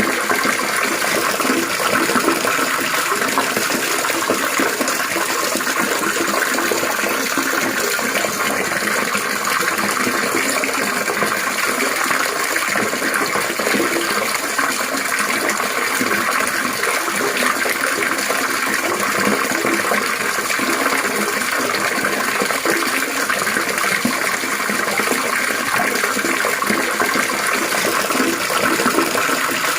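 Water trickling and splashing steadily, a continuous babble with no breaks.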